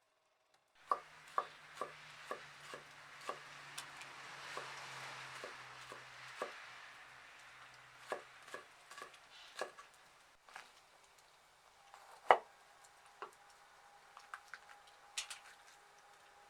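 Knife chopping on a cutting board: quick regular strokes, about two a second, then slower and irregular, with one louder knock about twelve seconds in.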